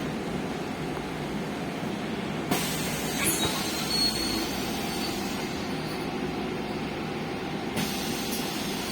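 Interior of a MAZ-215 articulated city bus on the move: steady engine and road noise with a few rattles and clicks, a sharp one about two and a half seconds in.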